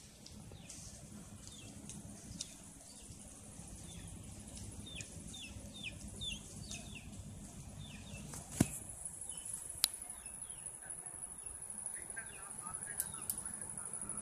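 Birds chirping, a quick run of short falling calls through the first half, over a low outdoor background rumble. Two sharp clicks come about two-thirds of the way through.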